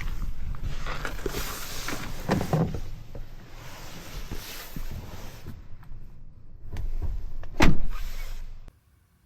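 Shuffling and handling noises around a car, then a car door shutting with a single loud thud near the end. The sound cuts off abruptly just after.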